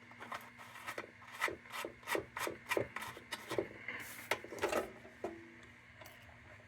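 A quick, irregular string of light clicks and scrapes from the tin parts of a Dietz No. 2 Blizzard kerosene lantern being handled, thinning out near the end.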